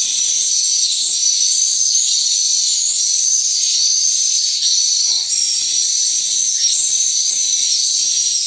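Dense, continuous high-pitched twittering of swiftlets filling the building, steady throughout, with faint scratchy noises underneath.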